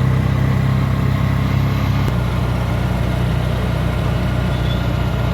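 A road vehicle's engine running steadily with road and wind noise while travelling; its tone shifts slightly about two seconds in.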